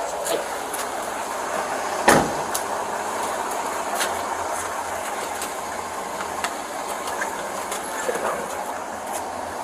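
Steady vehicle running noise with scattered small clicks and rattles, and one sharp knock about two seconds in.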